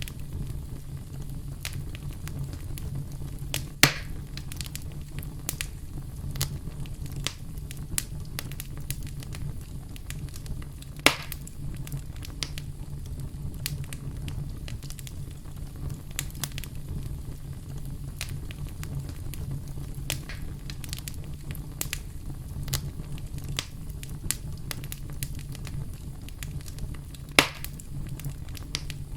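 Campfire crackling: a steady low rumble of the burning fire with frequent small crackles and three louder snaps, at about four seconds, eleven seconds and near the end.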